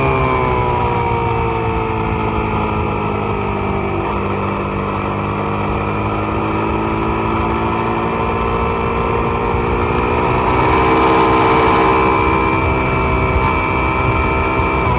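Suzuki SV650's V-twin engine heard onboard at speed: its note falls as the bike slows, then climbs steadily under acceleration from about five seconds in and levels off near the end. Wind rush grows as the speed builds.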